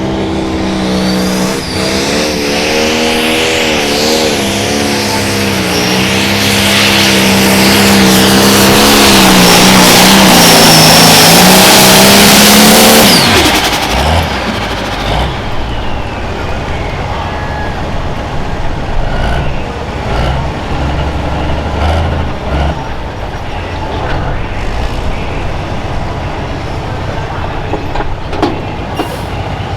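Turbocharged diesel pulling tractor running flat out under load on a pull, its pitch wavering up and down as it grows louder, with a high whine over it. About 13 seconds in the engine drops off the throttle suddenly, leaving a lower, rougher engine sound with scattered knocks.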